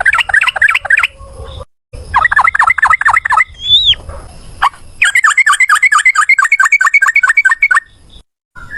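Yellow-vented bulbul (trucukan) song in a long rapid trill ('ropel'): quick repeated down-slurred notes, about five a second, with a single rising-and-falling whistle near the middle and a faster run of about eight notes a second from about five seconds in, broken by short pauses between phrases.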